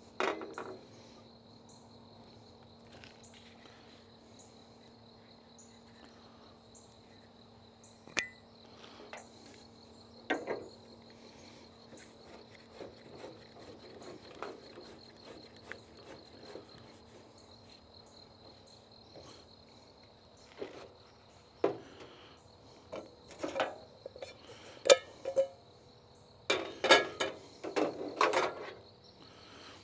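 Crickets chirping in a steady high trill, over a faint low hum. Scattered knocks and clatter of things being handled come and go, busier and louder in the last few seconds.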